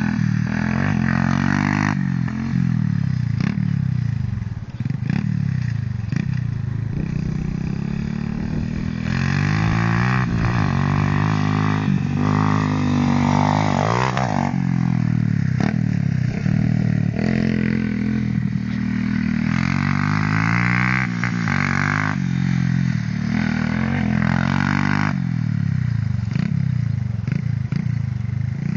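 Small motorcycle engine running hard off-road, its pitch repeatedly rising as it revs up and dropping back every few seconds as the rider accelerates and eases off.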